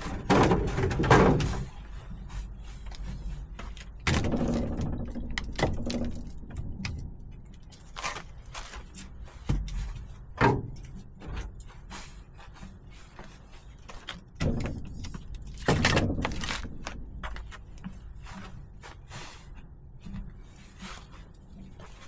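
Split firewood logs knocking and clunking against each other as they are handled and stacked, a run of irregular wooden thuds with pauses between.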